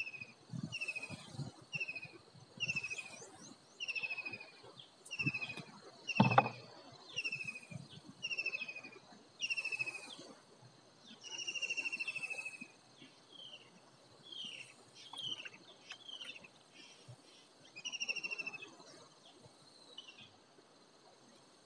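A bird calling over and over, each call a short downward-sliding note, about one a second, fading out near the end. A loud thump about six seconds in, with a few softer knocks of handling around it.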